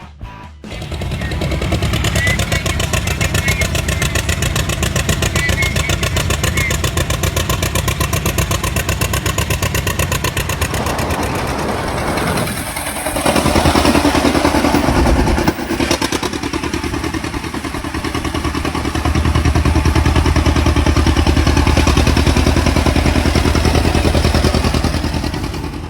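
An engine running with a fast, even beat; its note shifts about halfway through and it runs louder for much of the last third.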